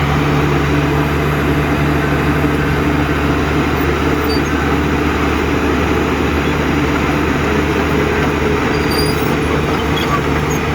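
Heavy diesel engine of earthmoving machinery running steadily at an even pitch, with no rise or fall.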